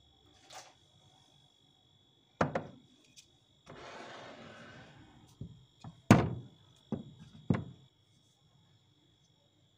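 Items being handled in a pantry cupboard: a knock, about a second of rustling, then three sharp knocks as things are set down or a cupboard door bumps.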